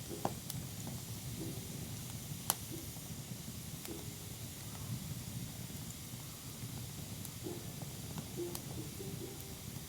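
Wood campfire burning with a steady low hiss, broken by a few sharp crackling pops; the loudest pop comes about two and a half seconds in.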